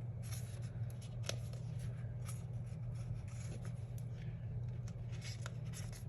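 Light rustling and scattered small ticks of paper sticker sheets being handled, over a steady low hum.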